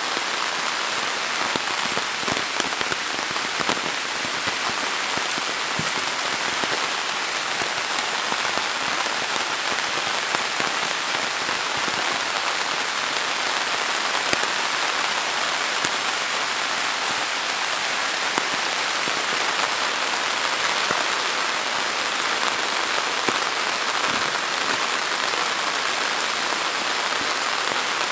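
Heavy rain falling steadily on leaves and a wet road: a dense, even hiss with many small sharp drop ticks.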